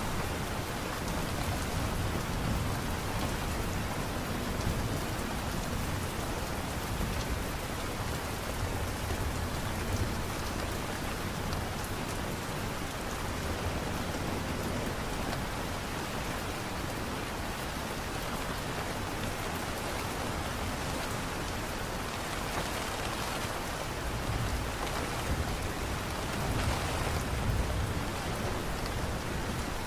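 Steady light rain falling, an even hiss of patter. A low rumble swells up in the last several seconds.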